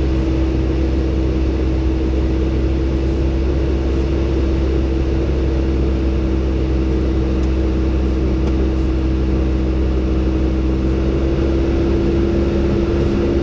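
Robin DR400-120 light aircraft's four-cylinder Lycoming engine and propeller droning steadily in cruise flight, an even hum with a constant pitch.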